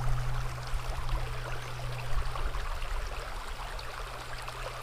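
Small river's water flowing and rippling in a steady wash, with a steady low hum underneath.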